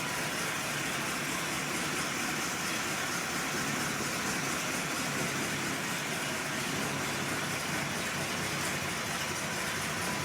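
1973 Buick Riviera's 455 V8 idling steadily.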